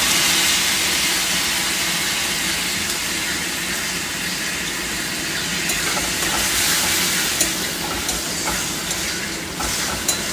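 Tomato paste hitting hot oil in a metal wok of fried onions sizzles loudly at first, then settles to a steady sizzle. About halfway through, a metal spatula starts stirring and scraping the pan, adding scattered clicks.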